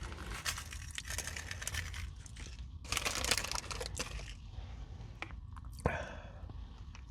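A Nature Valley crunchy granola bar, dipped in yogurt and whipped cream, being bitten and chewed close to the microphone: irregular crackling crunches, loudest about three seconds in.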